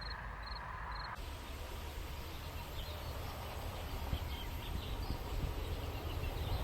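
Rural outdoor ambience with birds chirping. For the first second a high chirp repeats about twice a second. Then the ambience changes abruptly to a steady hiss and low rumble with scattered short bird chirps.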